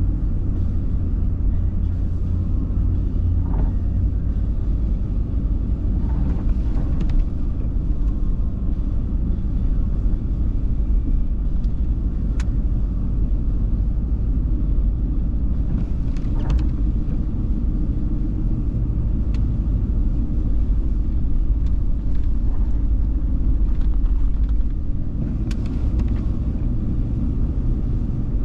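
A car driving, a steady low rumble of engine and road noise, with a few faint scattered clicks.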